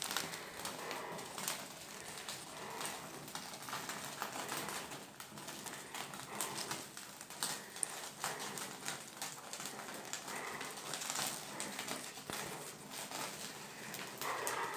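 A bonfire crackling faintly, with irregular small pops and ticks.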